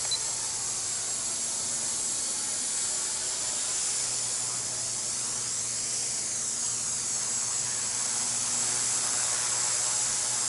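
Master CP micro RC helicopter in flight: a steady high whine from its 3800KV brushless main motor over the hiss of the rotor blades, with the pitch shifting slightly around the middle.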